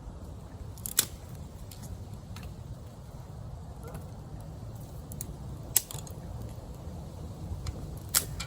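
Campfire crackling, with three sharp pops and lighter ticks over a low steady rumble.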